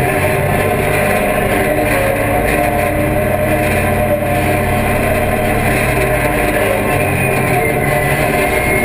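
A vehicle engine running steadily, its low pitch shifting about seven seconds in.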